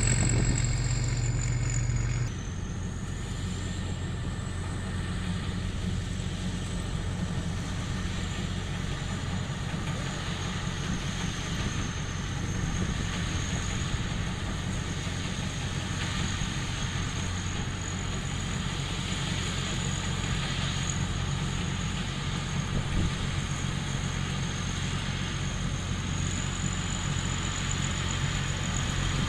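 Rice combine harvester's diesel engine running steadily, with a thin high whine from the machinery above it. The sound drops a little and changes character about two seconds in, then carries on evenly.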